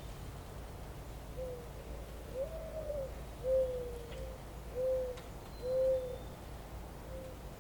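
A bird's low cooing call: a series of about six soft hooting notes, the second one higher and longer, over a steady low background rumble.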